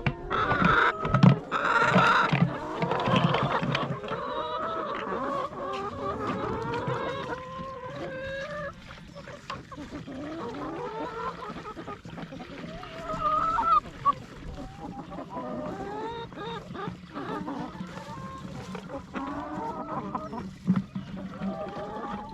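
A flock of farm poultry calling over one another, many short overlapping honks, clucks and squawks, loudest in the first few seconds, with a few knocks near the start.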